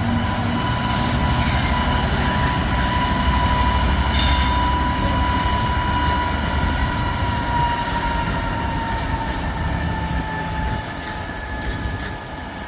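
Class 66 diesel freight locomotive's two-stroke V12 engine working hard as it powers away, with a steady high-pitched squeal and a couple of short clanks. The engine sound eases off and fades over the last few seconds.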